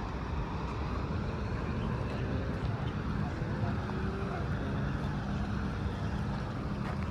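Steady, continuous road traffic noise: a constant hum of passing vehicles with no single event standing out.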